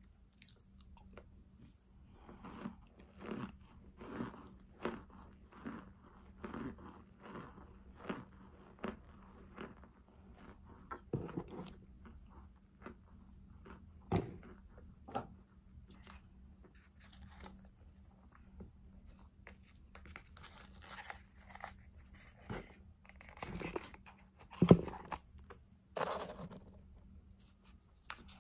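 Someone chewing hard chunks of cornstarch, crunching in a regular run a little faster than once a second, then more scattered, with one louder crunch near the end.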